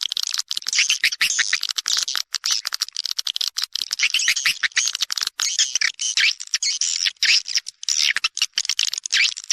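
Swiftlets twittering in a dense, rapid stream of high chirps and trills with no pauses: a recorded swiftlet call used as a lure sound to draw swiftlets into a bird house to nest.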